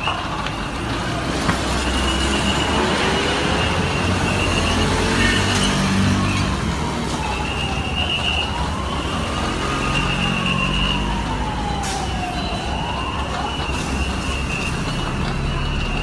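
Fire engine siren wailing, its pitch sliding slowly down and up every few seconds, over the low rumble of a heavy vehicle engine and traffic.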